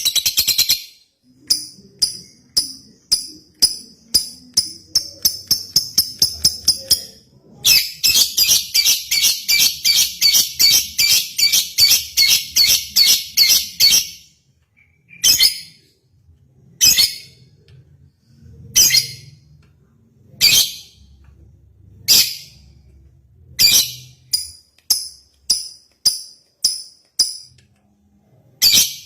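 Lovebird chattering in sharp, high chirps. The chirps come in a quickening run at first, then a fast unbroken trill lasting several seconds, then single shrill calls spaced a second or two apart.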